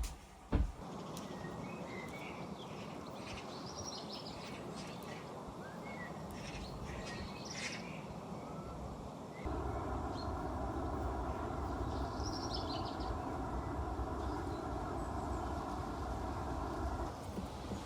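Small birds chirping in short scattered calls over a steady outdoor background noise. About halfway through, a louder even rushing noise comes in and stops shortly before the end.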